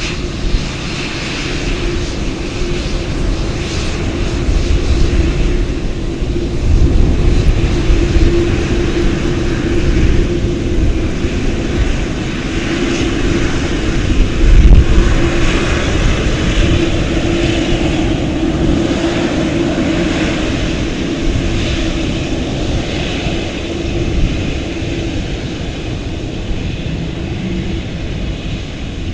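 Airplane engines running loud with a rumbling roar and a steady hum, swelling to a peak about halfway through and slowly fading near the end.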